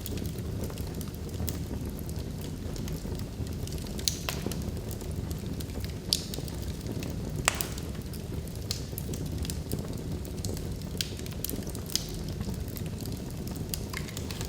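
Wood log fire burning in a fireplace: a steady low rush of flame with sharp crackles and pops from the logs every second or so, the loudest pop about halfway through.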